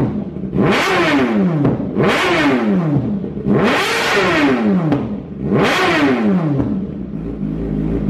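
Motorcycle with an aftermarket exhaust being revved four times in quick succession, each rev rising and then falling in pitch, before it settles back to idle near the end.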